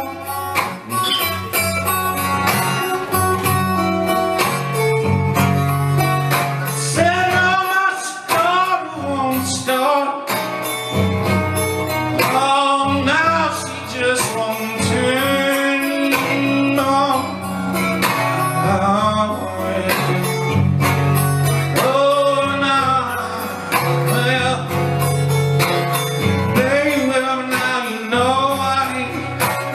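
Acoustic guitar playing a country-blues instrumental break: a picked bass line changing notes under bent treble lines.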